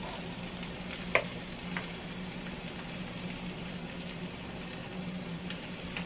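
Bacon and sausage sizzling on the hot non-stick plates of an electric double omelette maker, with a steady low hum beneath. A metal utensil taps against the pan twice a little after a second in.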